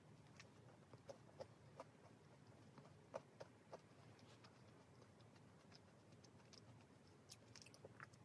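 Close-miked chewing of a cinnamon-sugar-coated financier: faint, scattered small crunches as the sugar coating is bitten and chewed.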